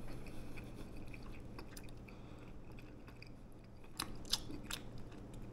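A person chewing a mouthful of air-fried chicken, faint and soft, with a few sharp clicks about four seconds in.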